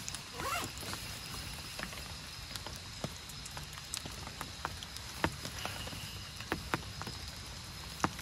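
Rain on a tent: a steady hiss with irregular, sharp drops ticking on the fabric. A short wavering call sounds about half a second in.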